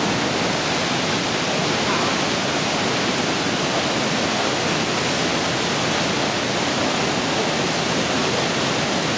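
Steady, loud rushing of the Pailón del Diablo, a large waterfall on the Pastaza River.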